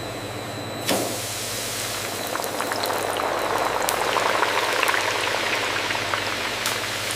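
A steady machine hum, then about a second in a dense bubbling, crackling liquid sound sets in and carries on, thick with small pops.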